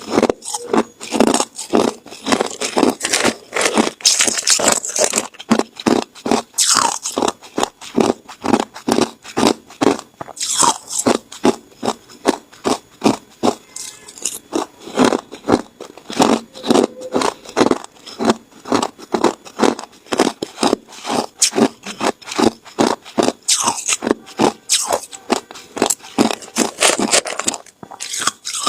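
Ice being bitten and chewed, crunching between the teeth in a steady run of sharp crunches, about two to three a second.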